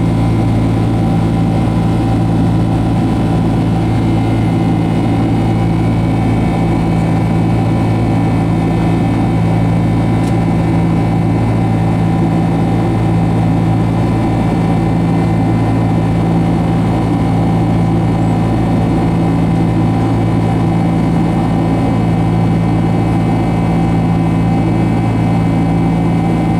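Boeing 767-200 jet engines and airflow heard inside the passenger cabin in flight: a loud, steady drone with a constant low hum and a few fixed tones.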